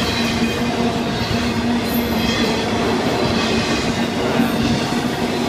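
Florida East Coast freight train's intermodal cars rolling past close by: a steady, loud rumble and rattle of steel wheels on the rails.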